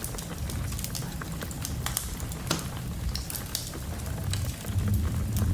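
Wood fire crackling with scattered sharp pops over a steady low rumble of wind, with the rumble swelling louder near the end.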